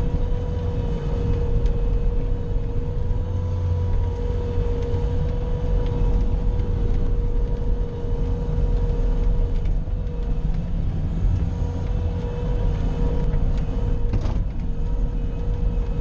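Bobcat skid-steer loader's engine running steadily under load, a heavy low rumble with a steady high whine over it.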